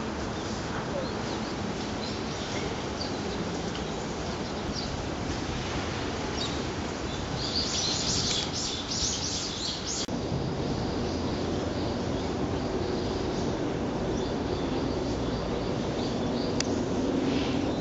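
Small birds chirping over a steady background hum of ambient noise, with a burst of rapid, closely spaced chirps about eight seconds in lasting a couple of seconds.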